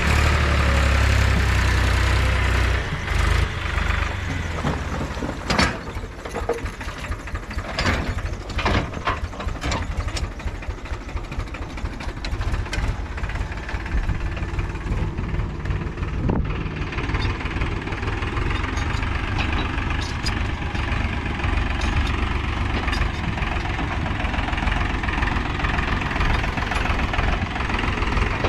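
Diesel engine of a JCB 3DX backhoe loader running steadily, loudest in the first few seconds, with scattered sharp knocks over the next ten seconds or so.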